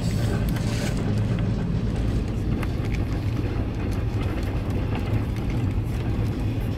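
Greenline Express passenger train running: a steady low rumble with a hum and a few light clicks.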